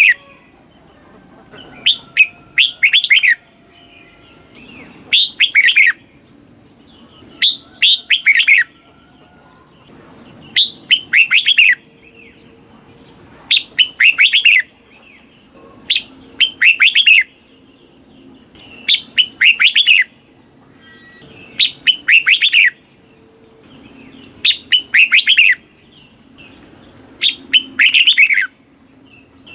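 Red-whiskered bulbul singing: short phrases of quick, sweeping whistled notes, about ten of them, repeated every two and a half to three seconds.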